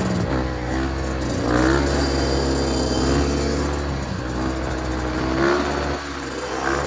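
Dirt bike engines running and revving, the pitch rising and falling over and over as the throttle is worked.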